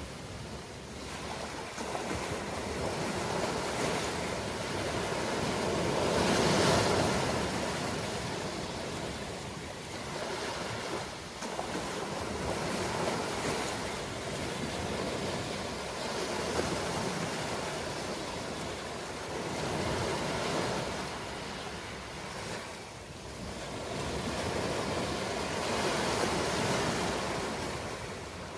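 Ocean surf: waves breaking and washing ashore in slow swells that rise and fall about every six to seven seconds. The loudest wave breaks about six seconds in.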